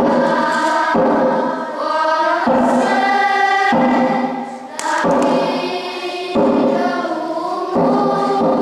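Choir singing a slow melody in sustained phrases.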